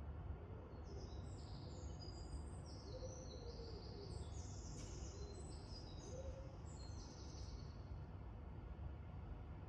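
Small birds chirping in a flurry of short, high calls for several seconds, over a steady low rumble.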